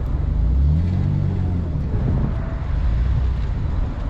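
Recovery vehicle's engine running while driving off-road, its pitch rising and falling briefly about a second in, over a steady low rumble.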